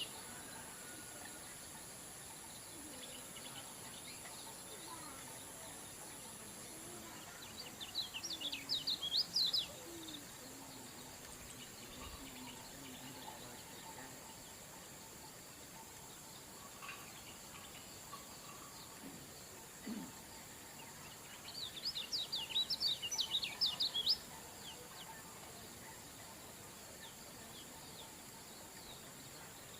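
Kecial kuning white-eye singing in short bursts of quick, high twittering, about two to three seconds each: one about eight seconds in and another about twenty-two seconds in, with quiet stretches of steady hiss between.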